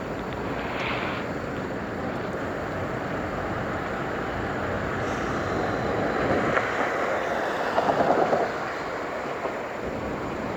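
Steady rushing wind and road noise from a bicycle ride through city streets, with a short, rapid clattering rattle about eight seconds in.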